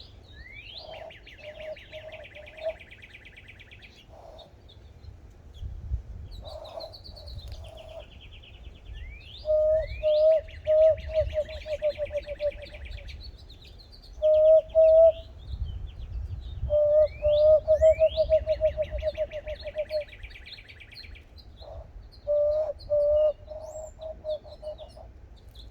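Whistling through cupped hands, worked with the thumbs: short hollow notes blown in quick runs, some runs held longer. These are the loudest sounds. Behind them a wild bird repeats a higher song, each a rising slur followed by a fast buzzy trill, about every five seconds.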